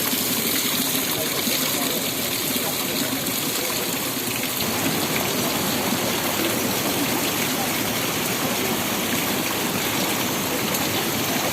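Steady rushing of flowing water from a stream spilling over small falls.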